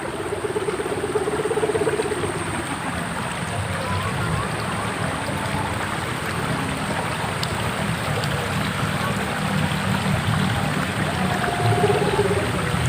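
Sendaren (kite hummer) on a flying kite droning in the wind: a steady low hum, with a wavering higher tone that swells over the first two seconds and again near the end, over wind rushing on the microphone.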